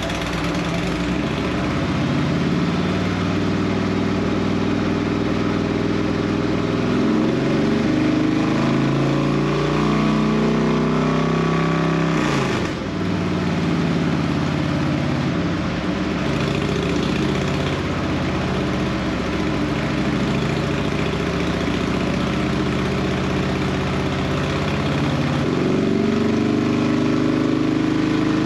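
Harley-Davidson Road King's V-twin engine, breathing through an Ultima Dominator 2-into-1 exhaust, running on a dyno during tuning sessions: its revs climb over several seconds, drop sharply about twelve seconds in, then climb and fall again. Shop cooling fans blow steadily underneath.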